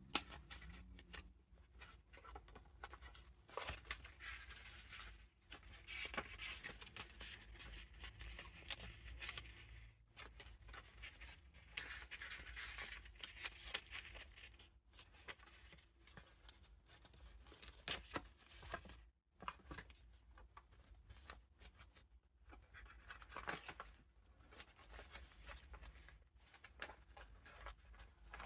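Paper pages of a handmade junk journal and its loose vintage ephemera being turned and handled. There are soft swishes and rustles of paper, with many small taps and clicks.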